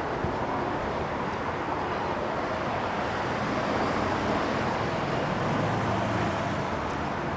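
Steady motor-vehicle noise, with a low engine hum coming up about five seconds in.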